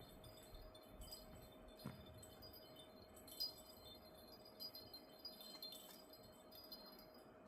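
Near silence: faint, scattered high metallic tinkling over a steady low hum, with a few small clicks.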